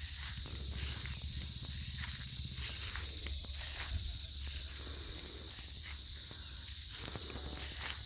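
Steady outdoor insect chirring, high and continuous, over a low rumble, with faint footsteps on grass.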